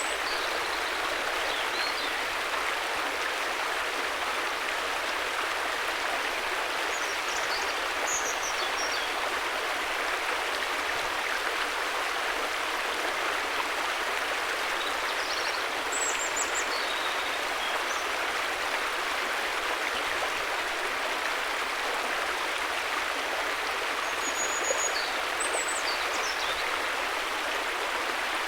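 River water flowing: a steady rushing of water. A few faint high chirps come through now and then.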